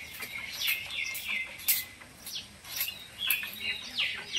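Small birds chirping repeatedly, a run of short, quickly falling chirps several times a second, with a few sharp clicks among them.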